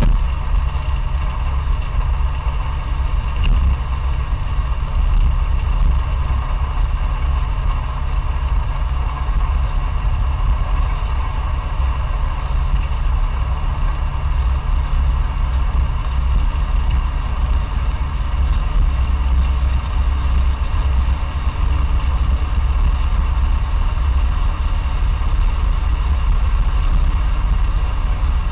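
Classic Fiat 500's air-cooled two-cylinder engine running at a steady, unchanging pitch, with a strong low rumble.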